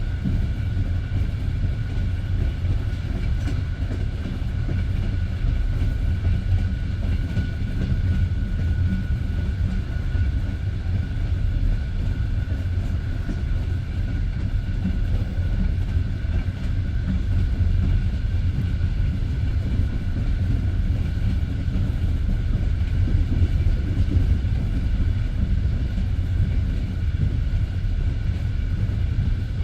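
Passenger train running at speed, its wheels rumbling steadily on the rails, with a faint steady high whine.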